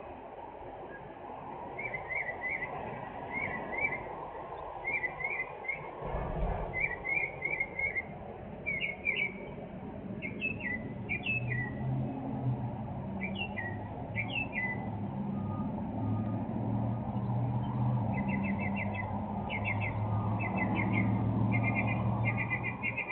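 Small birds chirping in repeated short phrases, with a vehicle engine running low and steady from about a third of the way in, its pitch shifting a little. There is a single low thud earlier on.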